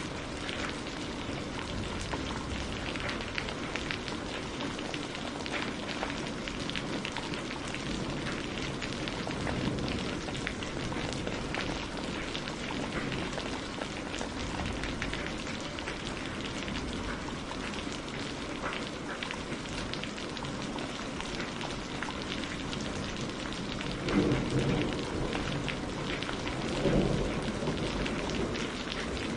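Steady rain falling on a surface, with many separate drop hits through an even hiss. Near the end come two short low rumbles.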